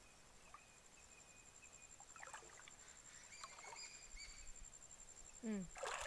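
Near silence with a few faint, short bird chirps and a thin steady high tone; a brief falling call near the end.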